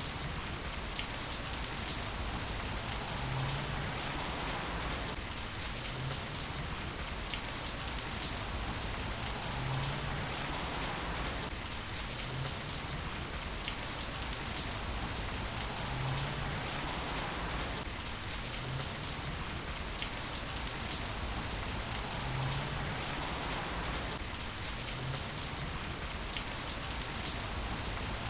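Heavy rain falling steadily on hard surfaces, with a few sharper, louder drop impacts standing out now and then.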